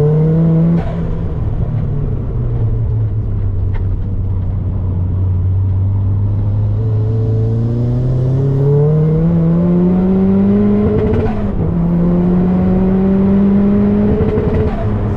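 Turbocharged Mazda MX-5's four-cylinder engine under hard acceleration on track. The revs hold fairly steady for a while, then climb, dropping sharply near the start, again about two-thirds through and once more near the end.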